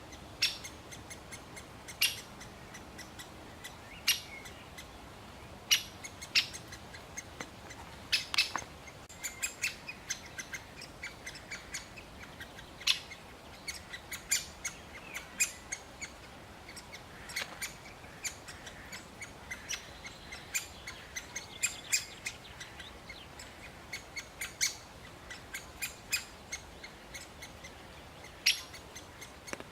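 Great spotted woodpecker giving short, sharp calls, repeated every second or two at irregular intervals, with fainter quick ticks in between.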